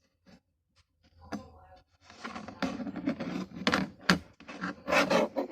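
Dishes and a dishwasher rack clattering and knocking as they are handled: a few faint clicks, then from about two seconds in a busy run of sharp knocks and rattles.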